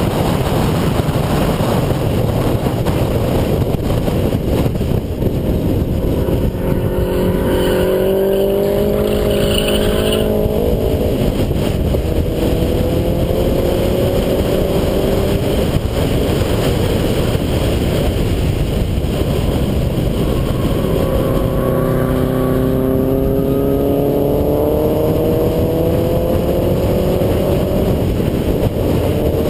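2008 Subaru Impreza 2.5i's flat-four engine pulling hard on track, its note climbing as it accelerates through the gears, first around a quarter of the way in and again over the last third, under a constant loud rush of wind and road noise.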